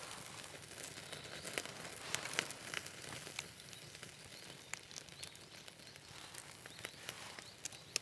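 Plastic packaging crinkling and tearing with scattered light clicks: a natto pack and its small condiment sachet being opened and handled.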